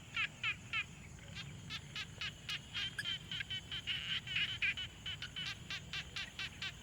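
Frogs calling at a pond: a rapid run of short, rasping croaks, about three to four a second, with two or more frogs overlapping in the middle. The calls stop just before the end, leaving a faint low background hum.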